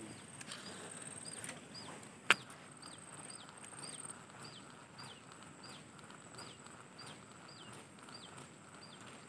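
A bird repeating a short, high call that drops in pitch, about twice a second, over a faint steady high whine. A single sharp click comes a little over two seconds in.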